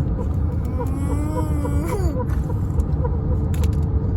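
Steady low rumble of a truck driving, heard from inside, with a constant hum. About a second in comes one drawn-out whining cry, about a second long, that rises slightly and then drops away.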